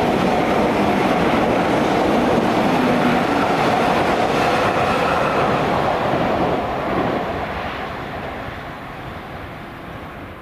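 A train running past on the line, its wheels on the rails loud and steady at first, then fading away from about six seconds in as it moves off.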